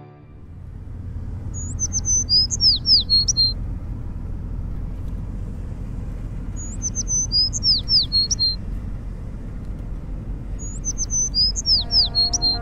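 A songbird sings the same short phrase three times, about four and a half seconds apart: a brief high note, then a run of quick falling whistles ending on a held note. Under it is a steady low rumble.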